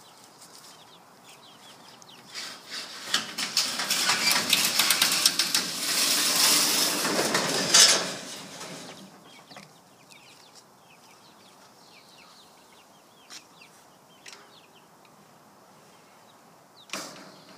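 Chickens clucking softly, broken for about six seconds, starting two seconds in, by a loud rattling, scraping noise of rapid clicks. Two single knocks follow later.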